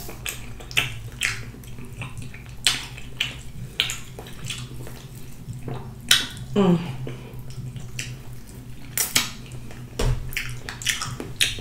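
Wet mouth smacking and chewing of rotisserie chicken, in short irregular clicks. A brief falling hum-like vocal sound comes about six and a half seconds in.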